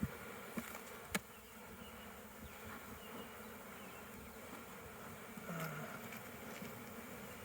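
Honeybees buzzing steadily around an open hive, with a few sharp clicks in the first second or so.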